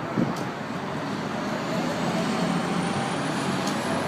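Steady road-vehicle noise: an engine running close by over street traffic, with a short knock about a quarter second in.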